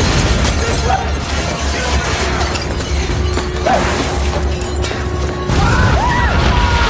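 Disaster-film soundtrack of an earthquake scene: a steady deep rumble with crashing and shattering under dramatic music, growing louder about five and a half seconds in.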